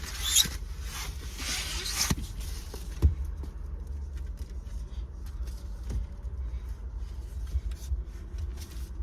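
Scraping and rustling of a car accessory being worked into place by hand, with a sharp knock about three seconds in and a few lighter knocks after, over a steady low rumble.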